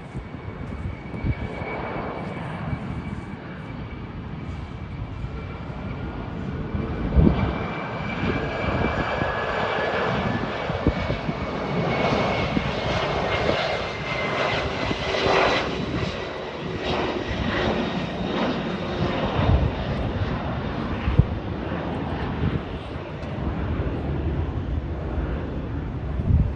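Gulfstream G500 business jet's twin Pratt & Whitney PW814GA turbofans at takeoff power: a jet roar with a high whine that drops in pitch as the aircraft goes by. The sound builds to its loudest about halfway through, then fades.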